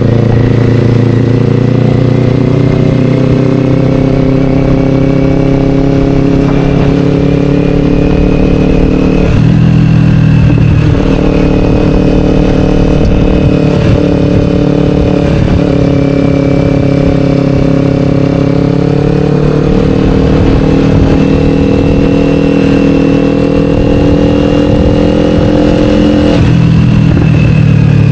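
Kawasaki Ninja 500's parallel-twin engine running through an Akrapovic slip-on exhaust, pulling steadily at road speed. The note changes briefly about ten seconds in and again near the end.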